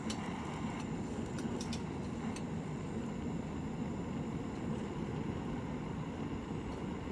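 Wood campfire burning: a steady low rush of flames, with a few faint crackles and pops in the first couple of seconds.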